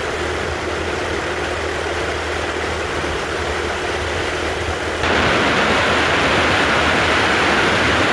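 Yamaha TW200's single-cylinder four-stroke engine running on the move, with a steady hum and heavy wind rush over the microphone. About five seconds in, the sound jumps suddenly louder and brighter.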